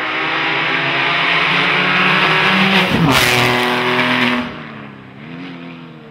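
A Porsche race car's flat-six engine at full throttle, rising in pitch as it approaches and passes close by about 3 seconds in, where the pitch drops sharply. It then fades as it pulls away, with a brief dip in pitch about 5 seconds in as it changes gear.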